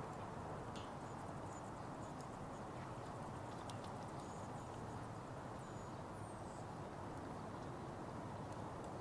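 Wood fire burning in a Petromax Atago fire pit: sparse, light crackles of burning wood over a steady low hiss.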